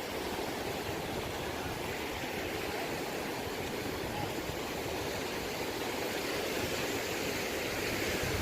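Ocean surf on a beach: breaking waves and rushing water, a steady wash of noise that swells slightly.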